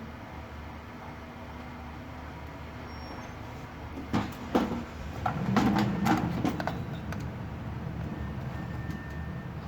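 Steady low hum and hiss, with a short run of clicks and knocks from objects being handled about four seconds in, lasting a couple of seconds.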